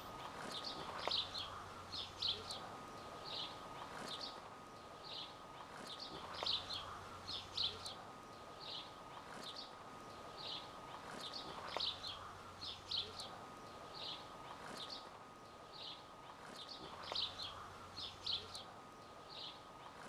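Faint birdsong: short, high chirps repeating in small groups, about two a second, over a faint steady high tone.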